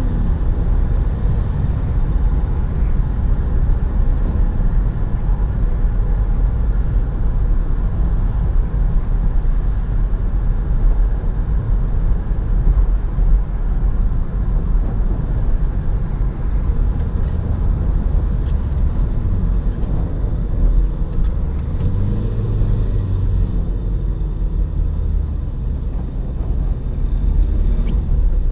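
Opel Astra 1.6 BiTurbo CDTI four-cylinder diesel car driving, a steady low rumble of engine and road noise. A deeper engine hum swells in and out around two-thirds of the way through.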